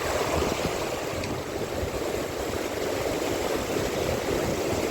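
Steady rush of sea waves washing against the shore, with wind blowing on the microphone.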